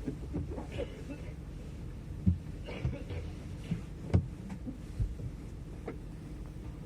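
A steady low mechanical hum, broken by several sharp knocks. The two loudest knocks come about two and four seconds in. Faint voices are heard in between.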